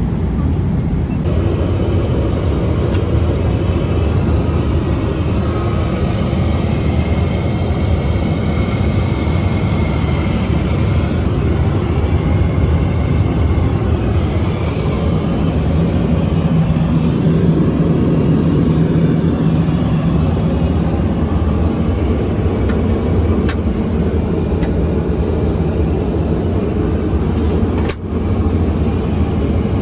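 Steady cabin drone of a Boeing 777-300ER, the engine and airflow noise heard from an economy seat, with two sharp clicks in the later part.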